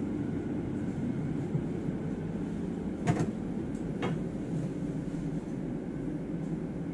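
Steady low rumble inside an ÖBB passenger train carriage as it runs. Two short sharp knocks come about a second apart, near the middle.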